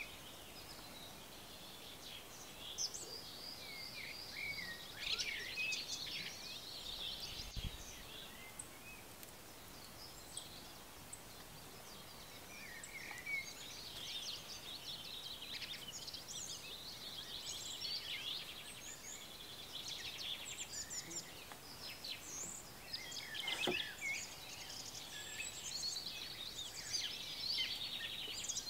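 Several songbirds singing and chirping, a busy mix of short trills and high chirps over a faint steady outdoor background.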